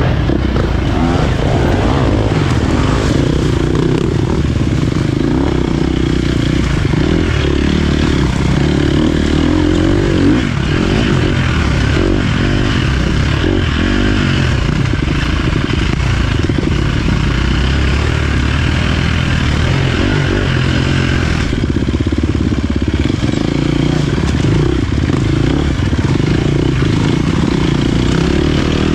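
Dirt bike engine running as the bike is ridden along an off-road trail, the engine note rising and falling with the throttle.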